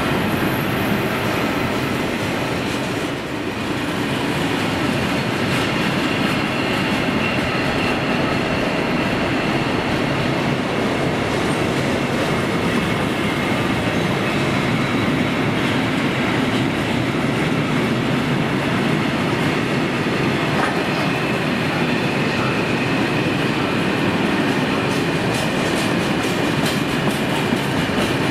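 Bogie tank wagons of a long freight train rolling steadily past, wheels clattering over rail joints, with a faint high squeal of wheels on rail.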